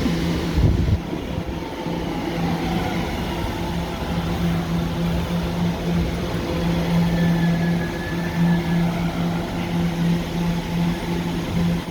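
Staten Island Railway train giving off a steady low hum, with a short low thump under a second in.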